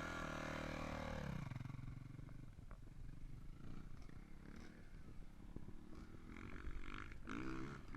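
Dirt bike engines heard faintly. One winds down in pitch over the first second and a half, a low rumble carries on, and another engine revs up and down near the end.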